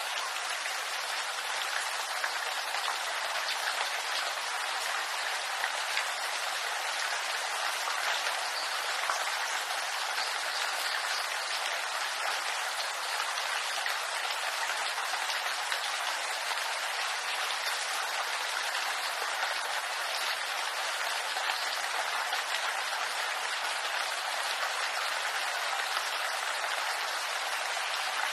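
Steady rain falling on bamboo leaves, a dense, even patter of many small drops.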